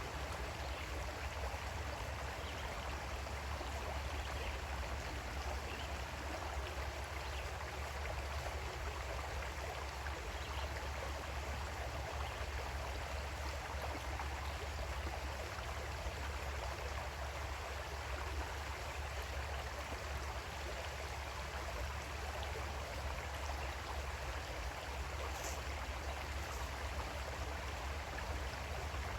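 Creek water flowing steadily, an even rushing and babbling with no breaks, over a steady low rumble.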